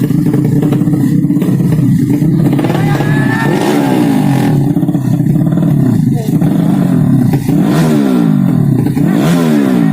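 Modified 200cc underbone racing motorcycle engines revving hard, their pitch sweeping up and down several times.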